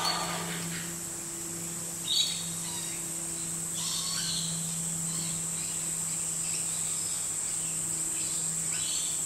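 Small metallic clicks and scrapes of a telescoping bore gauge being handled and read against a micrometer, while the bore of a cast-iron cylinder is measured; the sharpest click comes about two seconds in. Behind it runs a steady high-pitched whine over a low hum.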